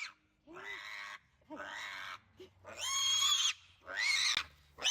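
Young pigs squealing loudly in a run of about five shrill cries in a row, the squeals of pigs protesting at being caught and held.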